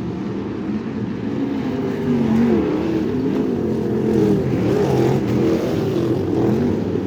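Crate sprint car V8 engine at racing speed, its pitch rising and falling as the throttle is worked through the corners.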